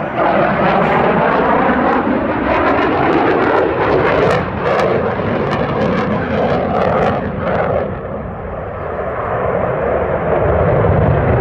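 Loud engine noise from a fixed-wing airplane flying by. It eases off a little about two-thirds of the way through and swells again near the end.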